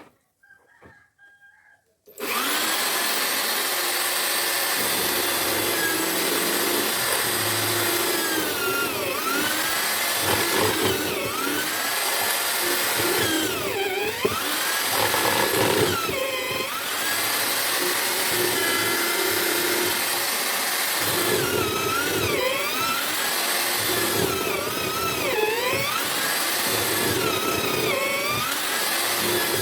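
Homemade drill-powered mortiser starts about two seconds in and runs steadily. Its motor whine repeatedly dips and recovers in pitch as the bit is pushed into the wood to cut mortises.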